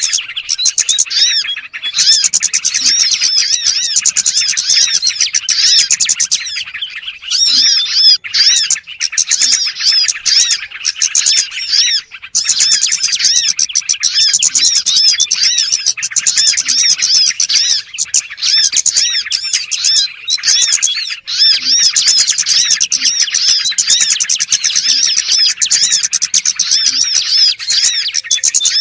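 Recorded lure call of small songbirds (burung cilik) played to attract wild birds: dense, rapid, high chirping that repeats almost without a break, pausing briefly about seven, eight and twelve seconds in.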